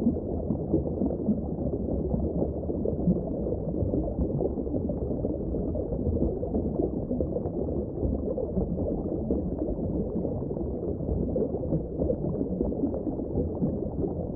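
Muffled underwater ambience: a steady low rush of bubbling water.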